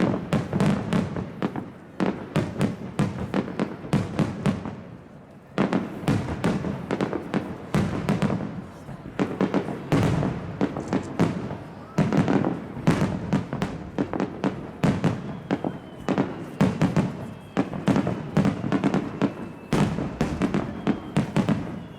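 Starmine fireworks barrage: a rapid run of booming shell bursts and crackles, several a second, with a brief lull about four seconds in.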